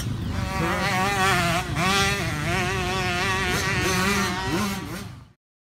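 Small motocross bike engine buzzing at high revs, its pitch wavering rapidly up and down as the throttle works. It fades and cuts off about five seconds in.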